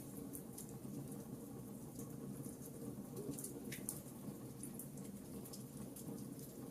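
Wood fire crackling: a steady low rush of burning with frequent small, sharp pops and snaps scattered throughout.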